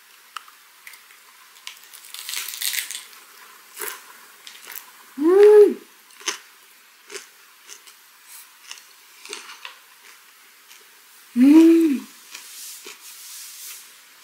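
Close-miked chewing and crunching of a raw napa cabbage wrap filled with herring gwamegi, scallion, garlic and chili, with wet mouth clicks. Twice a short, loud hummed "mmm" of enjoyment that rises and falls in pitch, about five seconds in and again past the eleven-second mark.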